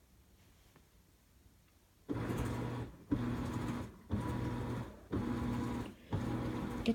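Whirlpool top-load washing machine agitating: the motor hums in strokes with short pauses between, about one a second, starting about two seconds in.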